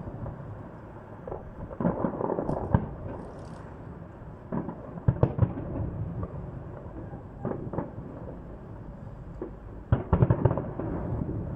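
Fireworks salute: aerial shells bursting in irregular clusters of bangs over a continuous rumble. The densest volleys come about two, five and ten seconds in.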